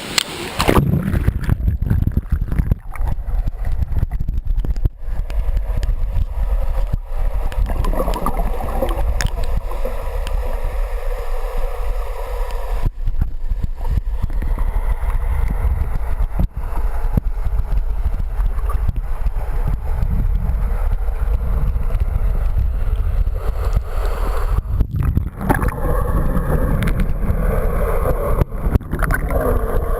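Waterfall rushing steadily, under a heavy low rumble of wind buffeting the microphone.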